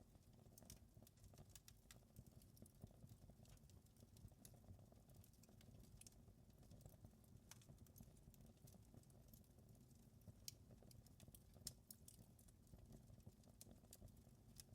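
Faint crackling of a wood fire: irregular small pops and snaps over a soft low rumble.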